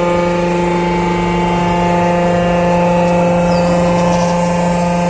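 Mini excavator engine running at a steady speed, with a constant whine.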